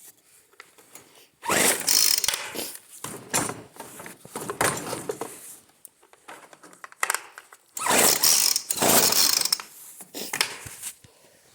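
Small two-stroke engine being pull-started: several hard yanks on the recoil starter cord, each a short burst of cranking, and the engine does not catch and run.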